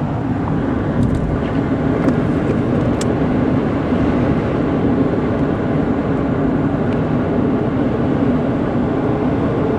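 Steady road and engine noise of a car travelling at highway speed, a low even drone with a few faint clicks in the first few seconds.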